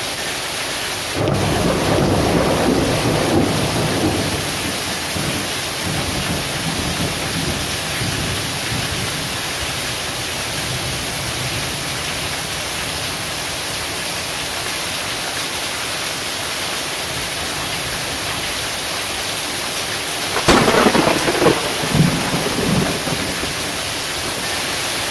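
Heavy rain pouring steadily, with a roll of thunder rumbling for a few seconds about a second in, and a sharper, louder thunderclap near the end that rumbles on for a couple of seconds.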